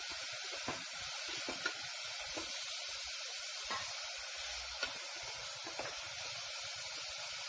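Sliced onions and green chillies frying in hot oil in an aluminium pressure cooker: a steady sizzling hiss, with a few light scrapes and taps of a wooden spatula stirring them.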